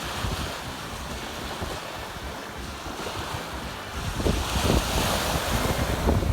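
Storm surf breaking and washing up a beach, a steady rush that swells louder about four seconds in. Heavy wind buffets the microphone, with low rumbling gusts in the second half.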